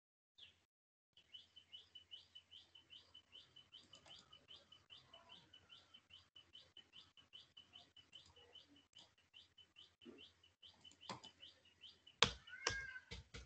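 Faint, evenly repeated short chirps, about three a second, each with a rising hook, from a small bird calling. Near the end the chirping stops and a few louder sharp knocks are heard.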